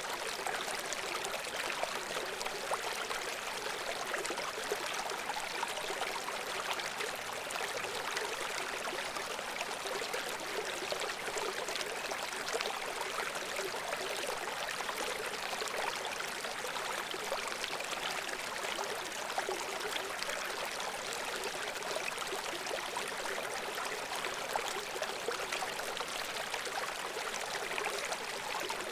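A shallow brook babbling and trickling over stones: a steady, even rush of bright splashing water with no pauses.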